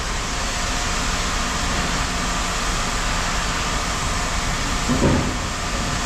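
Steady machinery running noise with a faint hum, and a brief thump about five seconds in.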